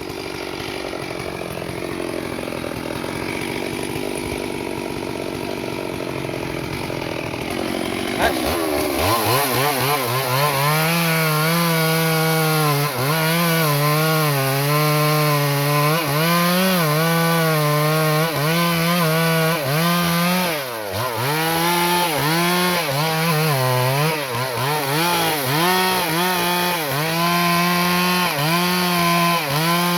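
Stihl MS 382 two-stroke chainsaw, rough and unsteady for the first eight seconds or so, then revving up sharply and running at high revs. Its pitch sags and recovers again and again, as when the chain is pressed into wood.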